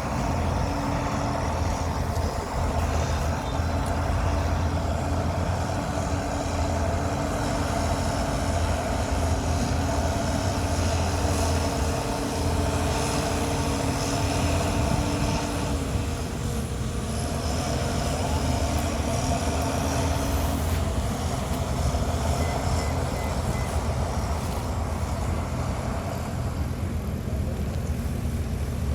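Heavy earthmoving machinery's diesel engine running steadily under load, with its pitch shifting slightly about halfway through.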